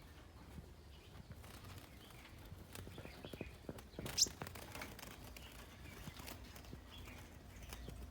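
Scarlet-backed flowerpecker calling: faint, thin, high chips with one sharp, high call about four seconds in, among scattered light clicks.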